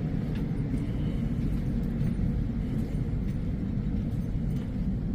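Steady low rumble of cabin noise inside an Airbus A321neo airliner, with a faint steady hum above it.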